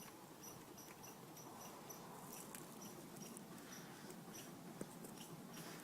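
Faint, short high-pitched chirps repeating evenly about twice a second over quiet room tone.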